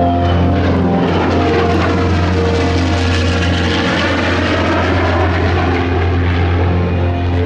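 An aircraft making a pass, its noise swelling to a peak around the middle of the pass, with background music playing underneath; the sound cuts off abruptly at the end.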